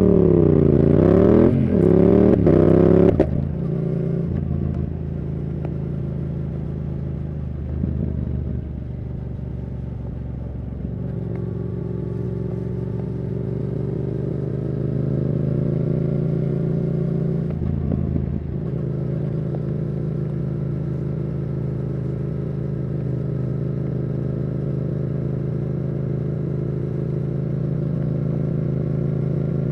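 Yamaha R7's CP2 parallel-twin engine through a Yoshimura R77 exhaust with the dB killer removed. In the first three seconds it revs hard, its pitch swinging up and down several times through quick gear changes. It then settles into a steady cruising note with small changes in revs.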